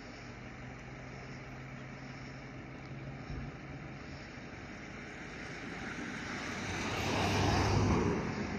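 A vehicle engine running with a steady low hum. About five seconds in, a louder rush of vehicle noise swells, peaks near the end, then eases off, like a vehicle passing close by.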